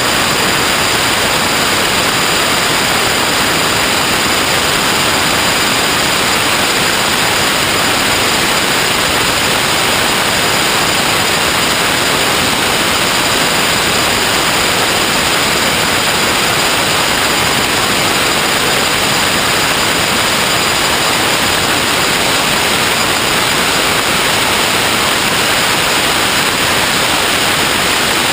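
Steady, unchanging static hiss with faint thin high tones running through it.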